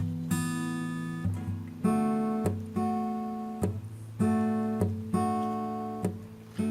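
Background music: acoustic guitar playing strummed chords, each chord struck and left to ring, a new one about every second.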